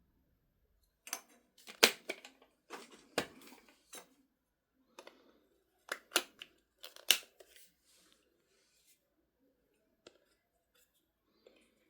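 Handling noise: a run of sharp clicks, snaps and short scrapes, like hard plastic parts being fitted or worked by hand. It is busiest in the first seven seconds and thins to a few single ticks later on. The vacuum's motor is not running.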